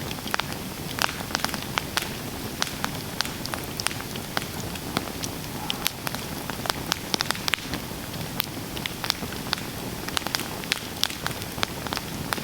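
Campfire burning: a steady low hiss under many sharp, irregular crackles and pops from the burning wood.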